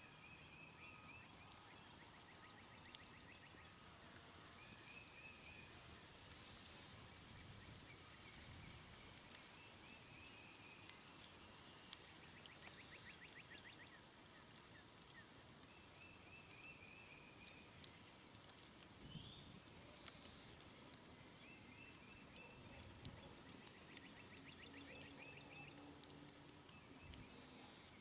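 Faint campfire crackling with scattered sharp pops, under short bird calls repeated every few seconds and an occasional rapid pulsed trill.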